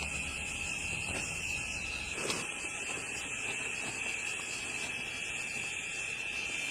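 Steady, high-pitched chorus of insects such as crickets, with a single faint knock about two seconds in.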